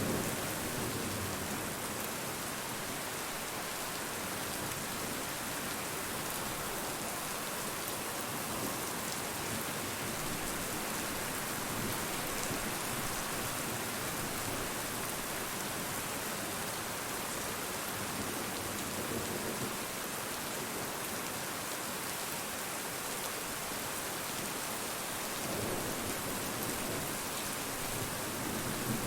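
Steady rain falling and pattering on a surface, an even hiss that keeps up without a break.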